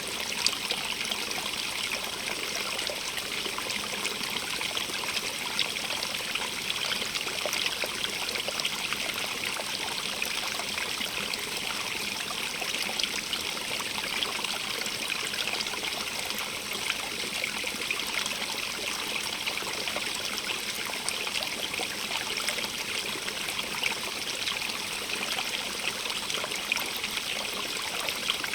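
Running water of a small stream splashing and trickling over stones, a steady hiss with fine splashes and no change in flow.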